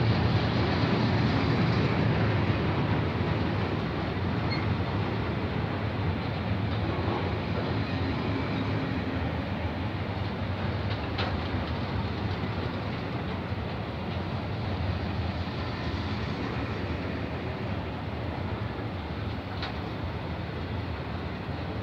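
Intermodal freight train of wagons loaded with tank containers, trailers and shipping containers rolling past, a steady rumble of wheels on the rails that slowly gets quieter, with a couple of faint clicks.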